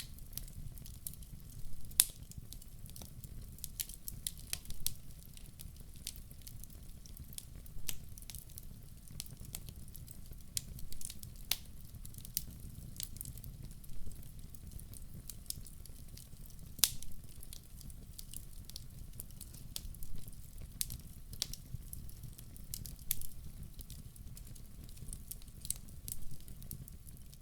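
Wood fire burning in a fireplace: irregular crackles and sharp pops over a low steady rumble of the flames, with the loudest pop about two seconds in.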